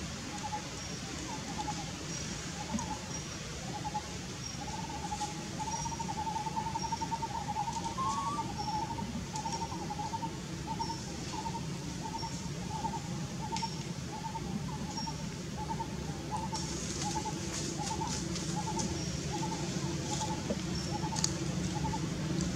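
A bird calls a short note over and over, one or two a second, with faint high chirps. A steady low rumble runs underneath.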